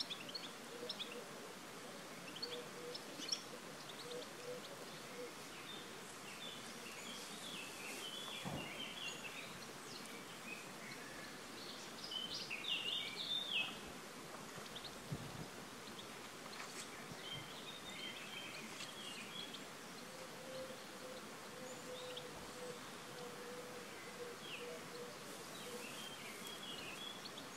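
Several birds chirping and singing in short scattered phrases over a steady outdoor background hiss. A faint steady hum comes in twice, for a few seconds each time.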